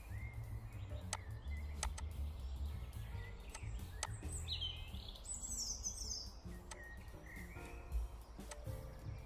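Birds chirping over a low steady hum, with a quick twittering run of descending chirps around the middle, and a few short sharp clicks.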